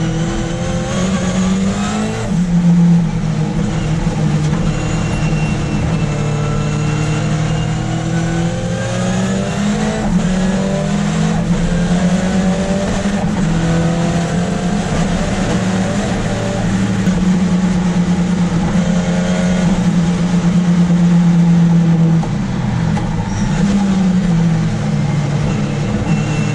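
Ford Escort RS Cosworth's turbocharged four-cylinder engine heard from inside the cabin, being driven hard: revs climb again and again, and pitch drops back at each gear change.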